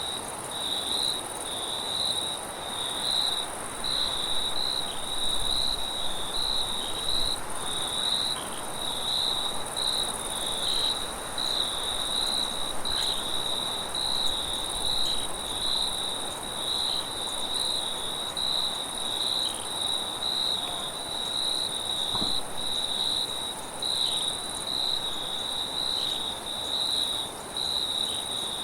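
Crickets chirping in a continuous pulsing trill, with a fainter, higher insect hiss and a steady soft rush of wind beneath.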